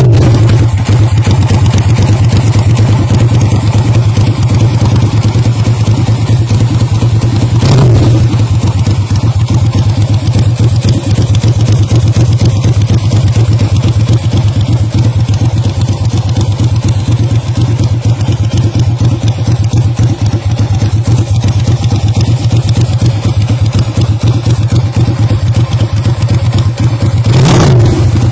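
Custom 80° V-twin motorcycle engine built from Honda GL100 parts, idling steadily with a fast even pulse. The throttle is blipped briefly twice: once about 8 seconds in and once near the end.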